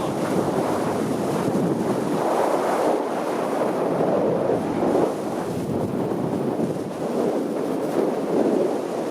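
Rushing wind buffeting the microphone of a hang glider in flight, a loud steady rush that swells twice.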